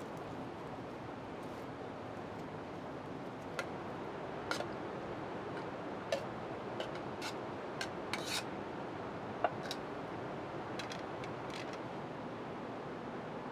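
Steady heavy rain hiss, with a scattered run of sharp clicks and ticks starting a few seconds in and dying away near the end.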